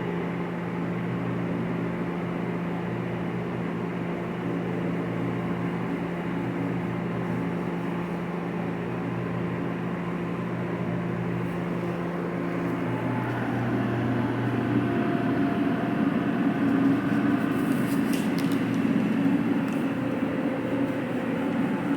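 Steady machinery hum with a low drone that changes about halfway through to a rougher, slightly louder hum, with a few brief scratchy sounds near the end.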